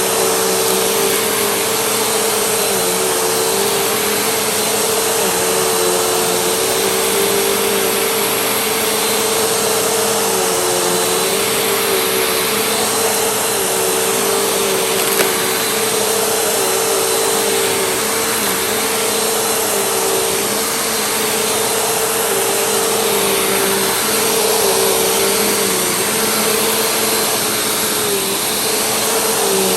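Vacuum cleaner running steadily. Its motor hum dips briefly in pitch every second or two as the cleaner is worked back and forth. There is one small tick about halfway through.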